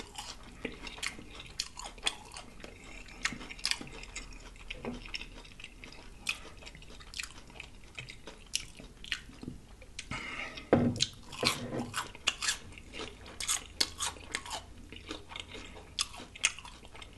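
Close-miked chewing of crisp fried food: many sharp crunches and wet mouth clicks, with a louder, lower sound about eleven seconds in.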